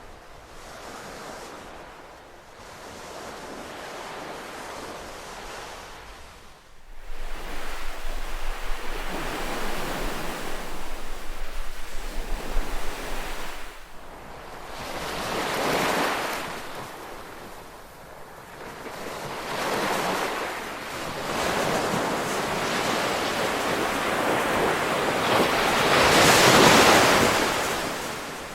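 Ocean waves washing in, a steady rushing surf that swells as waves break, about every four to six seconds in the second half, the loudest near the end. A louder, choppier stretch with a low rumble from about seven to fourteen seconds in, like wind on the microphone.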